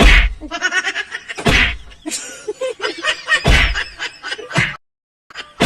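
A series of loud whacks, four in about five seconds, with short pitched cries and chatter between them.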